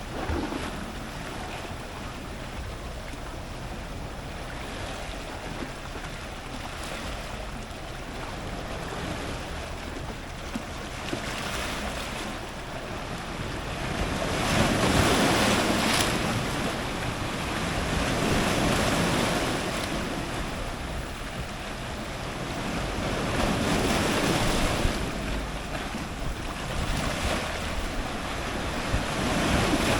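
Ocean surf breaking on rocks close to the waterline: a continuous wash of churning water that swells with each incoming wave. The strongest crash comes about halfway through, with further surges later and near the end.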